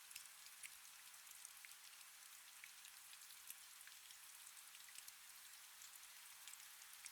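Faint, steady rain: an even hiss with many scattered small drop ticks.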